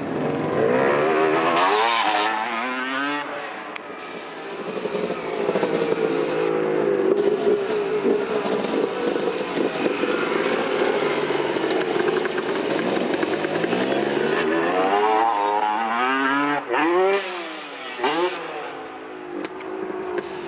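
Freestyle motocross dirt bike engines revving, the pitch sweeping up and down a couple of seconds in and again near the end, with a high steady engine note held in between.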